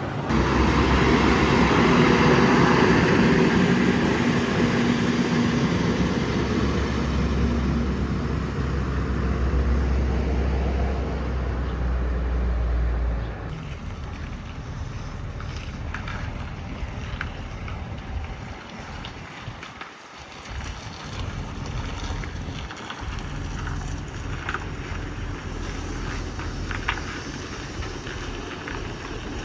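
Heavy truck engine running steadily, with wind on the microphone; the engine sound cuts off suddenly about 13 seconds in, leaving a quieter steady hum with a few light knocks and clicks.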